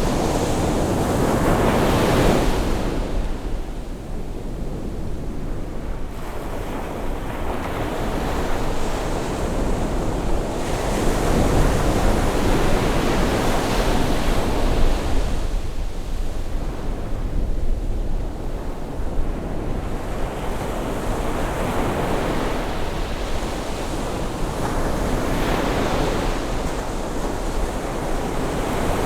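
Ocean waves washing onto a beach on a rising tide, the surf swelling and falling back every several seconds.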